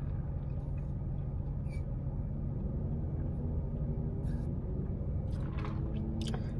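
Steady low hum of a car idling, heard from inside the cabin, with a few faint short sounds of sipping through a drinking straw.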